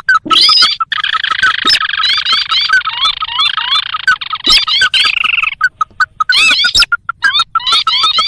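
Ruddy-breasted crake (sintar) calls from a bird-lure recording: fast repeated notes, about six a second, with overlapping rising chirps. About a second in they thicken into a dense, many-voiced chorus for some four seconds, then thin out again.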